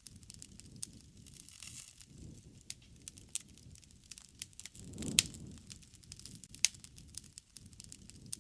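Wood fire crackling: irregular sharp pops and snaps of burning wood over a low rush of flames, with the loudest pop about five seconds in.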